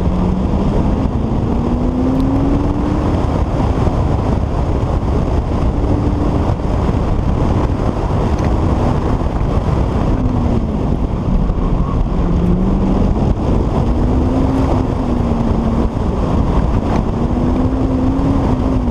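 Car engine revving up and down during an autocross run, its pitch climbing and dropping again and again as the car accelerates and slows between cones, over a heavy low rumble of wind and road noise.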